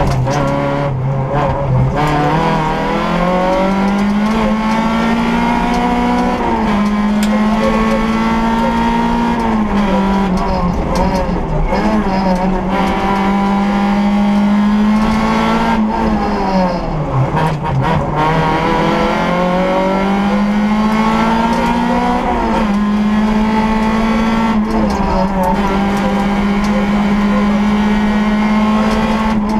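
Peugeot 106 S16 rally car's four-cylinder engine heard from inside the cabin, driven hard on a stage. Its revs climb, hold high and fall back again and again through the corners, with a deep dip and recovery about seventeen seconds in.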